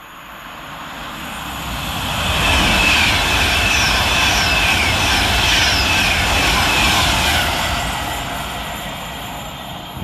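A Class 390 Pendolino electric train passing through at speed without stopping. It builds up over about two seconds, stays loud with an evenly repeating beat as the cars go by, then fades away.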